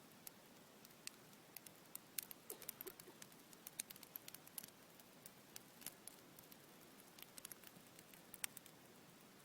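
Campfire crackling, with irregular sharp pops and snaps, thickest a couple of seconds in.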